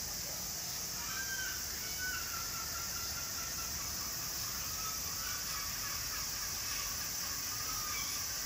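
A steady high hiss with faint, drawn-out bird calls coming and going from about a second in.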